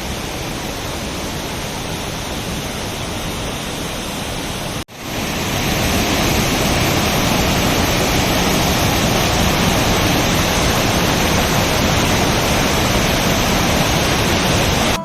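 Waterfall rushing as a steady wash of water noise. About five seconds in there is an abrupt cut to a second, louder and brighter shot of falling water.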